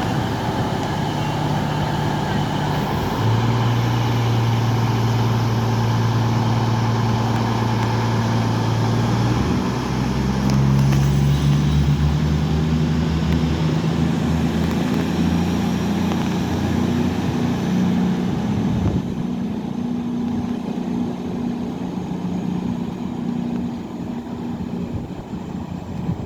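Diesel train engine running with a steady low hum. It rises in pitch about ten seconds in as the engine powers up, and the deepest part fades after about nineteen seconds, typical of a diesel unit pulling out of the station.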